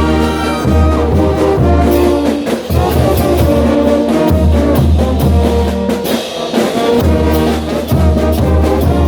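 A Bolivian brass band playing carnival music: trumpets and trombones holding melody notes over a pulsing low bass line, with percussion strikes.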